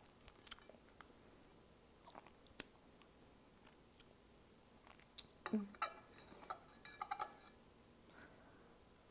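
Close-miked mouth sounds of eating spicy ramen noodles: soft chewing and wet lip clicks. About five seconds in, a louder, denser run of wet clicks and smacks lasts a couple of seconds.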